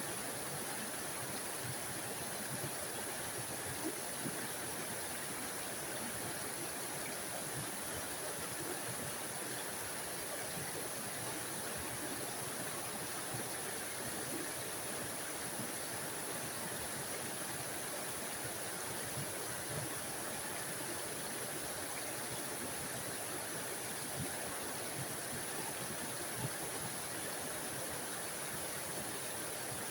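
Small forest waterfall: water tumbling and splashing steadily over rocks in an even rushing hiss, with little splashes now and then.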